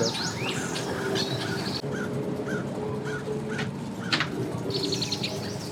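A bird calling in a run of short, evenly spaced chirps, with a few higher notes near the end, over a steady low engine hum.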